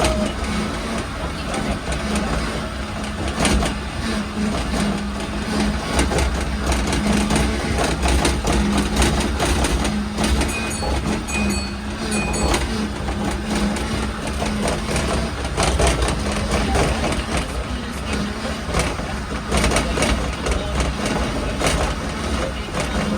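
Steady mechanical hum over a low rumble, with frequent small clicks and rattles, and three short high beeps about halfway through.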